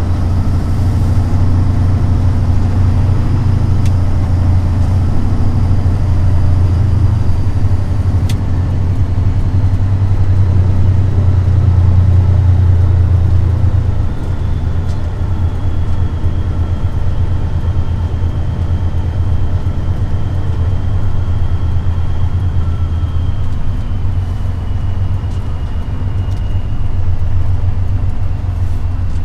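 Semi-truck diesel engine running steadily in a deep drone, easing slightly about halfway through.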